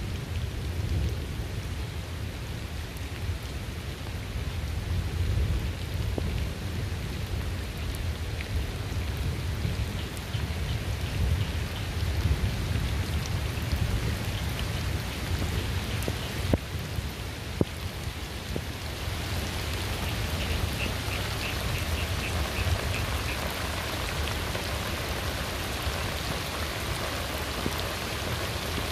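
Steady rain pattering, with a continuous low rumble of thunder underneath and a few sharp drip clicks about halfway through. Short runs of rapid, high chirping come through twice.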